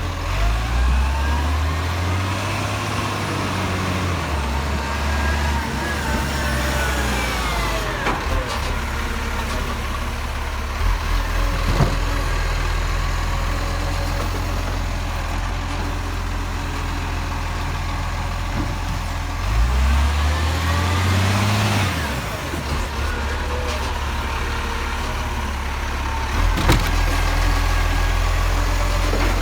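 Garbage truck's diesel engine running with a steady low hum. A rising whine builds over several seconds and then drops away, twice, as the truck works harder. A few sharp knocks are heard along the way.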